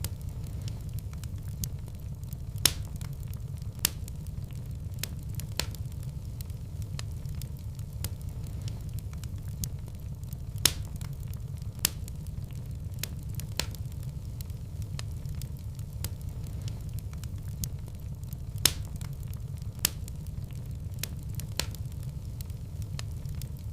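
Wood fire in a fireplace crackling: frequent sharp pops and snaps, a handful of them much louder, over a steady low rumble of the flames.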